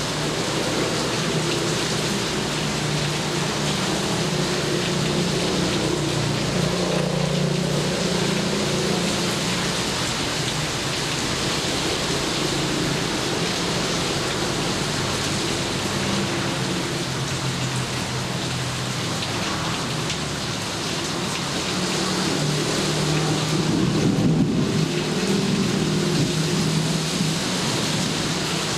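Steady rain pouring down, with low rolling thunder that swells twice: once about a quarter of the way in, and again, louder, near the end.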